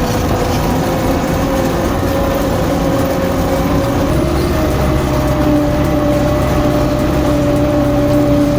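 A bulldozer's heavy diesel engine running steadily under load, with a whine that edges slowly up in pitch.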